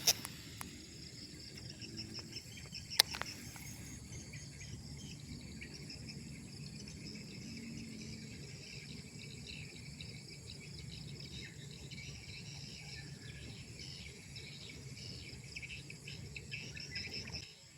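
Insects chirring steadily in the background, with a single sharp click about three seconds in.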